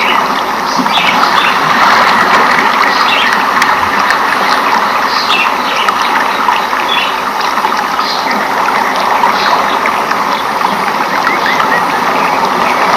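Rainforest ambience: a steady, dense rushing hiss with many short, high chirps of birds scattered over it.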